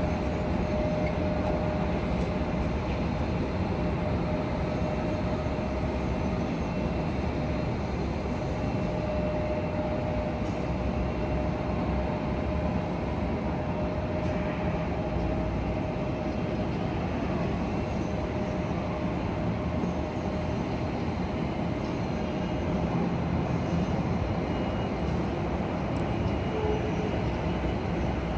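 Airbus A320 jet engines and airframe running steadily with a deep rumble. A thin steady whine sounds over it and fades out about halfway through.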